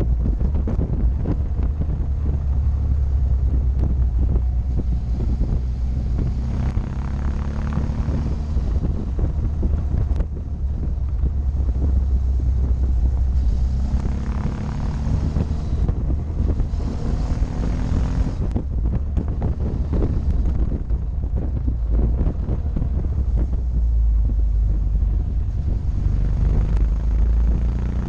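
Motorcycle engine running on the move, its note rising and falling with the throttle, under heavy wind buffeting on the camera's microphone.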